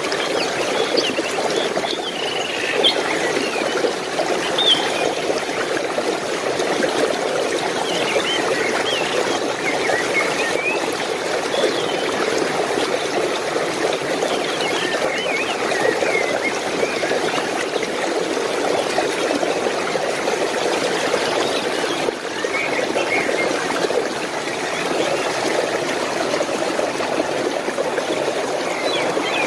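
Running water flowing and trickling steadily, with small birds chirping in short scattered calls over it.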